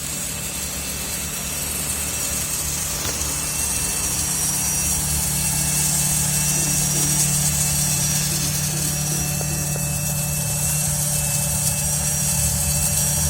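Small battery motor of a toy washing machine running steadily with a constant whirring hum, getting slightly louder over the stretch.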